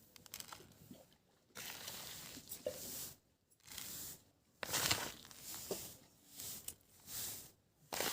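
A series of short rasping, rustling strokes, about one a second, from materials being worked by hand.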